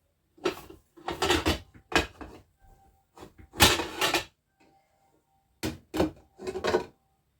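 A series of knocks and scrapes from kitchen things being handled, five or so separate bumps over several seconds. The longest of them comes about halfway through.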